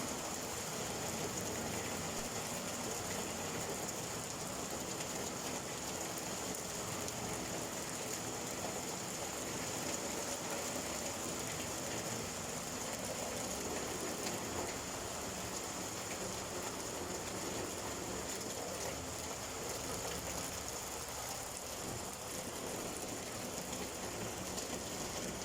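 Steady rain falling: an even hiss made of many small drop impacts, with no let-up.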